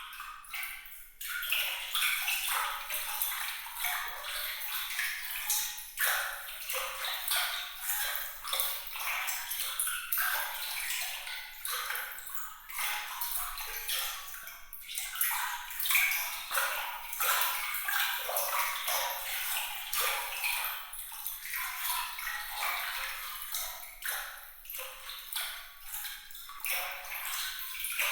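Water splashing and trickling in a dense patter of quick, bright droplet sounds, thin and high with no low rumble. It swells back up about a second in after a brief lull.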